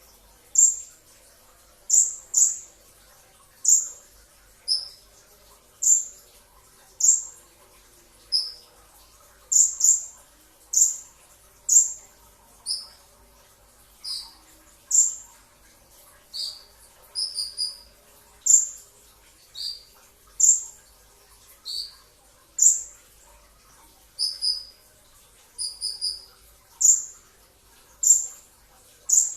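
Kolibri ninja sunbird calling: short, sharp, high chip notes about once a second, most falling quickly in pitch, some given in quick doubles or triples.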